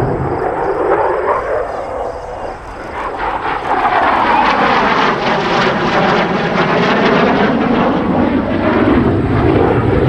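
F-16 fighter jet passing during a demonstration flight: loud jet engine noise that dips briefly, then swells about three and a half seconds in, with a sweeping, shifting roar as the jet goes by.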